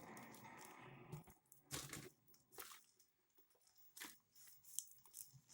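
Faint handling of packaging, a steady rustle for about a second followed by a few scattered crackles and clicks.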